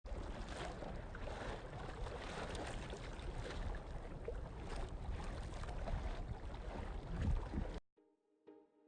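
Wind buffeting the microphone on a boat out on the water, a steady rushing noise that cuts off suddenly near the end, where faint music begins.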